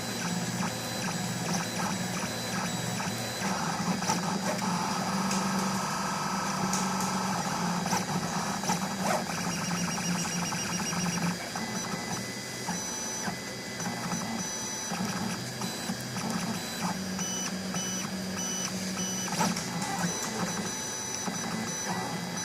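Colido 3D printer printing: its stepper motors whine in shifting tones as the head moves, over the steady hum of the cooling fan.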